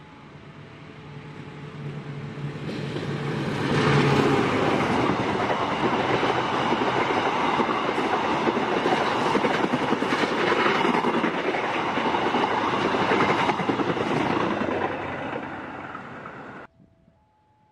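Diesel-electric locomotive and its passenger coaches passing at speed. The engine hum grows over about four seconds as the train nears, then the wheels on the rails keep up a steady rumble as the coaches go by. The sound cuts off suddenly near the end.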